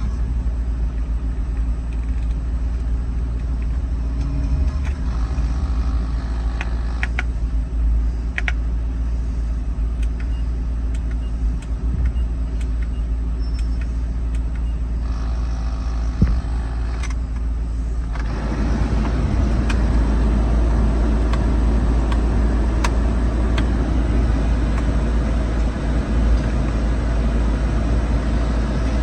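2009 Mustang's 4.6L V8 engine running steadily, getting louder and fuller about two-thirds of the way through.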